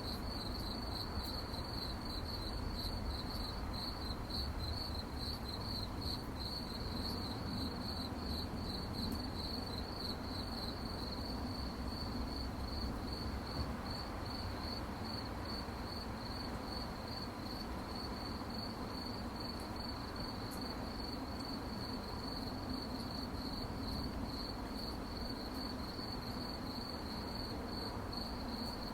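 Crickets chirping in a steady, continuous high-pitched trill, over a low, even background rumble.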